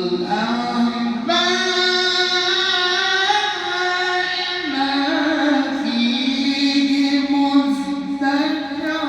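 A male reciter chanting the Quran in melodic tajweed style, holding one long ornamented vocal line whose pitch steps up about a second in and settles lower again near the middle.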